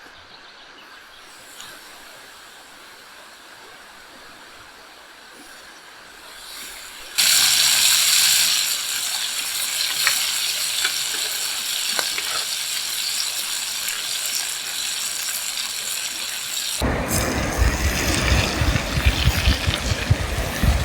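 Duck breast sizzling over an open fire: an even, hissing sizzle that starts suddenly about seven seconds in after a quiet stretch. Near the end it gives way to a louder, rumbling noise with sharp crackles.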